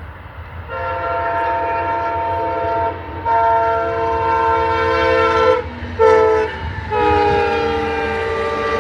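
Amtrak Wolverine passenger locomotive's multi-chime air horn sounding the grade-crossing signal: long, long, short, long, the last blast dropping slightly in pitch as the train passes. A train rumble runs underneath.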